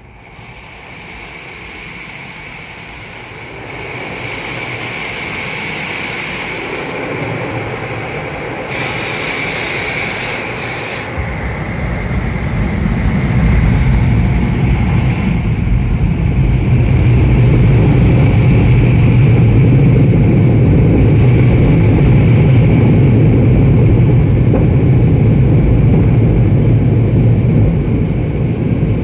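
Automatic car wash machinery running and growing louder. A steady high tone runs over a rumble, with a brief loud hiss about nine seconds in, and a heavy low rumble from about twelve seconds on.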